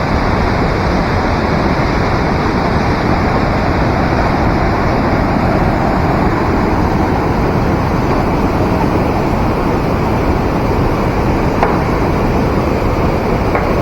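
Rushing water: a loud, steady, unbroken roar.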